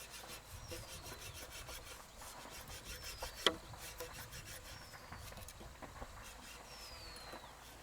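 Faint rasping of a hand tool working wood, in a quick, even rhythm, with a couple of sharp clicks. A short high falling whistle repeats about every two seconds over it.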